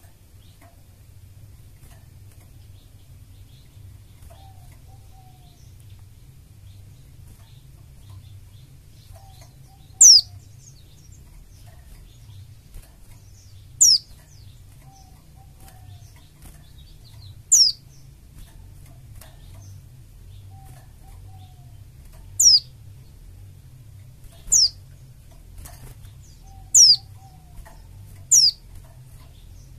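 White-eye (pleci) giving sharp, high-pitched calls that fall steeply in pitch. There are seven calls, a few seconds apart, starting about a third of the way in. A steady low hum runs underneath.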